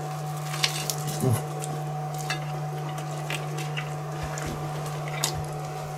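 A person biting into and chewing a burger with lettuce: scattered soft crunches and clicks from mouth and plate. A steady low hum with a faint higher tone runs underneath.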